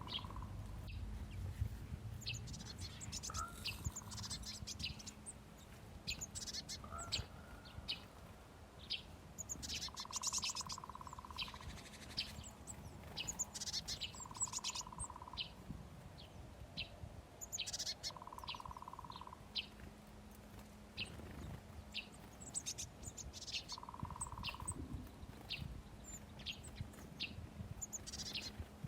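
Small birds chirping: many short, high chirps coming thick and fast throughout, with a steady mid-pitched note about a second long recurring every four or five seconds, over a faint low hum.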